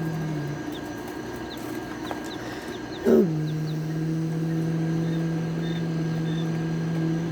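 Baby chicks peeping: short, high peeps that slide downward, scattered through, over a steady low mechanical hum. About three seconds in, a short, loud sound drops sharply in pitch.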